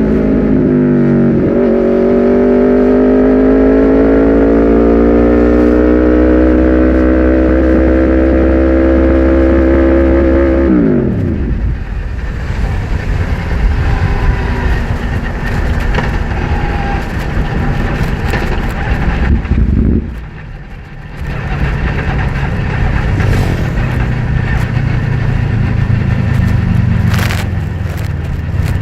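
Aprilia RSV4's V4 engine pulling through an Austin Racing GP2R exhaust, its note climbing slowly, then at about ten seconds the pitch drops steeply and the engine note cuts out: the engine has died at speed. What remains is wind and road noise as the bike coasts.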